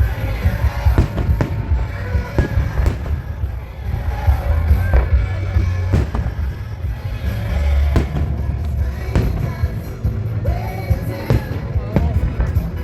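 Aerial fireworks bursting in a show: many sharp bangs one after another over a deep rumble, with the show's music playing underneath.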